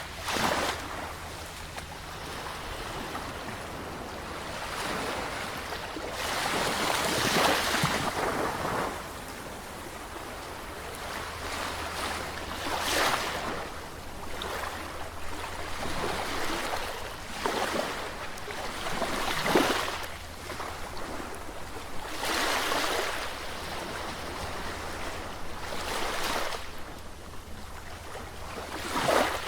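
Sea waves breaking and washing in on the shore, a surge of surf every few seconds with quieter wash between. The longest, loudest swell comes about a quarter of the way in.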